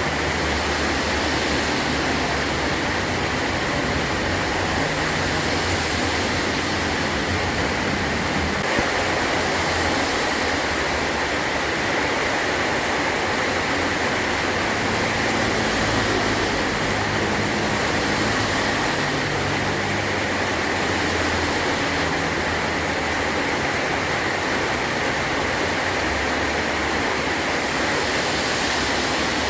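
Heavy rain falling steadily on a metal tin roof, an even hiss with no letup.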